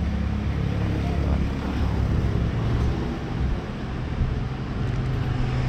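Wind buffeting the microphone of a rider on a moving scooter, a steady low rumble over the scooter's engine and road noise.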